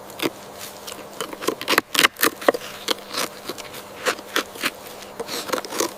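Porcupine quills clicking and clattering against each other in irregular dry clicks, with a cluster of louder snaps about two seconds in.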